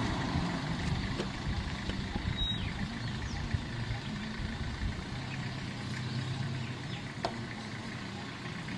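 A vehicle engine idling steadily, with a low even hum.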